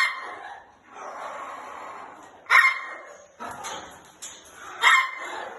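Three short, loud animal calls, about two and a half seconds apart, over a fainter continuous background of calls.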